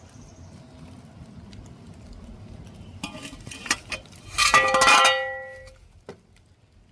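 A clatter of metal striking metal, loudest a little past halfway, that leaves a brief ringing as it dies away.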